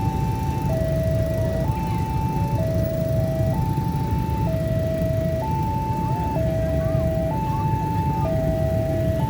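Railway level-crossing warning alarm sounding its electronic two-tone signal, alternating between a higher and a lower tone about once a second, over a steady low rumble of road traffic.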